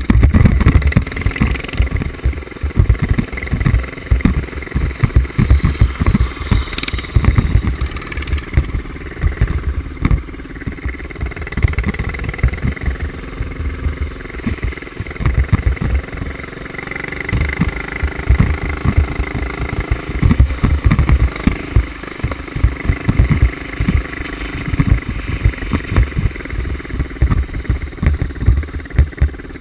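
Mini bike engine running and revving off-road, heard through heavy wind buffeting and jolting knocks on a helmet-mounted action camera's microphone.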